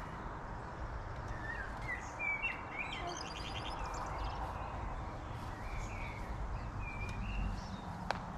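Birds chirping in short, scattered calls over a steady outdoor background noise, with a denser burst of chirping about three seconds in. A single sharp click near the end.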